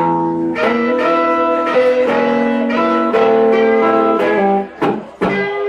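Live Chicago blues band playing an instrumental passage between sung lines: guitar with long held, changing notes, and a short break near the end.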